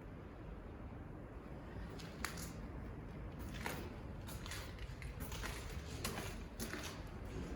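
Footsteps on gritty ground, scuffing along at about two steps a second from a few seconds in, over a steady low rumble of wind buffeting the microphone.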